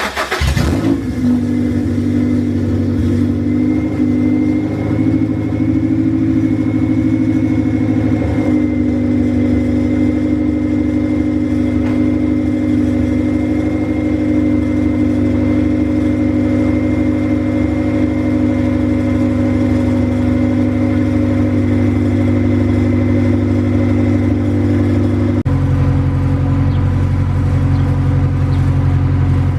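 Honda Integra's four-cylinder engine starting right at the outset, then idling steadily. The idle note shifts about a third of the way in and drops deeper near the end.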